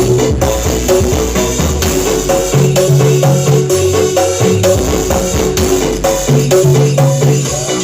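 Loud DJ remix dance music played through a large sound system, with a fast rattling percussion beat, a repeating melody and deep bass notes.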